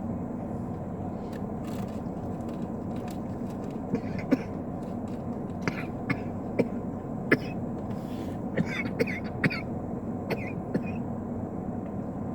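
A person eating a burger: scattered short mouth clicks and small cough-like throat sounds, most of them in the second half, over a steady low hum.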